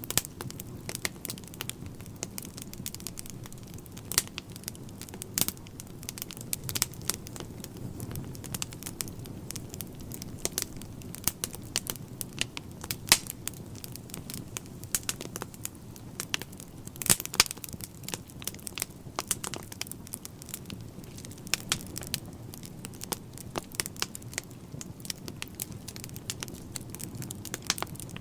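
Wood fire burning in a fireplace: a steady low rumble of flames with irregular sharp crackles and pops from the burning logs, a few louder snaps among them.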